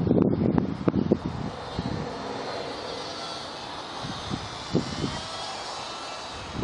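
Electric motor and propeller of a WLToys F949 Cessna-182 RC plane whining steadily in flight, with wind buffeting the microphone in the first second or so.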